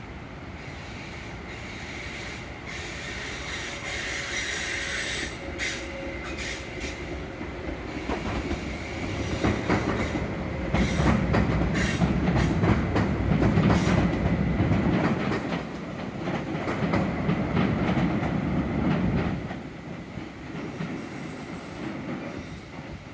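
Stadler FLIRT diesel-electric train crossing a steel girder bridge. It builds up from a distance with a high whine, then the wheels click over the rail joints under a heavy rumble that is loudest about halfway through, and it falls away sharply near the end as the train moves off.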